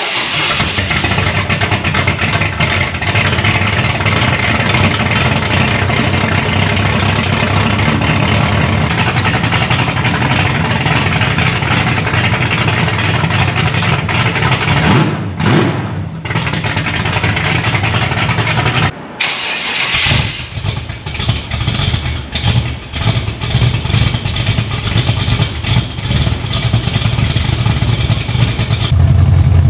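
Big-block Buick V8 with a performance cam running through Borla Pro XS mufflers just after a cold start, a deep steady exhaust note. It breaks off briefly twice about halfway. In the second half the level rises and falls unevenly, and near the end a louder, deeper note comes in.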